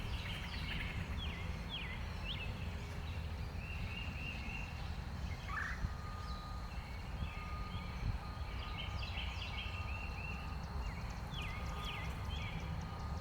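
Small songbirds chirping and chattering: many short, down-slurred chirps and buzzy bursts repeating throughout, over a steady low rumble.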